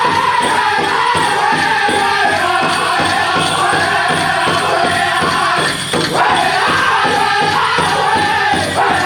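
Powwow drum group singing in high, loud voices over a steady beat on the big drum; the melody slowly descends in pitch.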